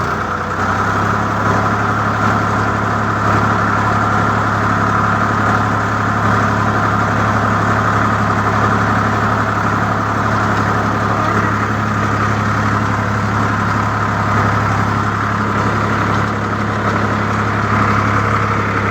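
Sonalika DI 745 III tractor's diesel engine running at a steady, unchanging speed.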